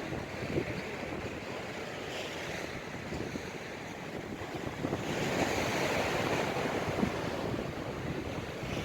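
Storm waves breaking and washing on the shore in strong wind, with wind noise on the microphone. The surf swells louder about five seconds in and eases near the end.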